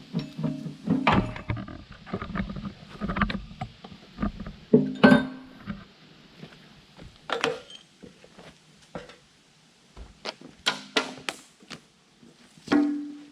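A series of sharp knocks and clanks, over a low steady hum that stops about six seconds in.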